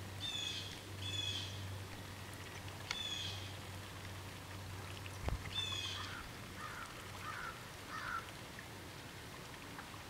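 Bird calls: four short calls spaced a second or two apart, then four softer, lower notes in the second half.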